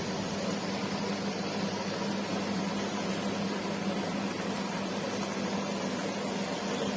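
Aquarium air pumps and filters running: a steady hiss with a low, even hum underneath.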